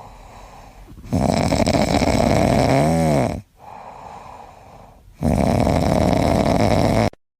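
A sleeping pet snoring loudly: two long snores a few seconds apart, with quieter breathing between them. The first snore ends in a brief wavering squeak.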